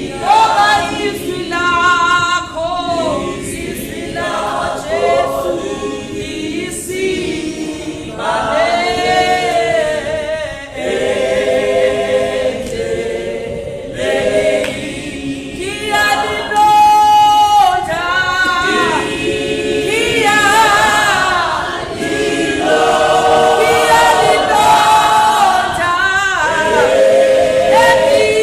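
A group of voices singing a slow worship song together without instruments, the sung lines held and gliding between notes.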